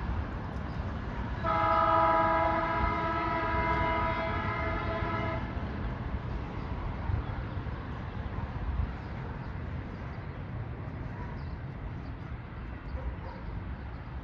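Train horn sounding one long blast of about four seconds, a chord of several notes, over the low rumble of the train, which goes on after the horn stops.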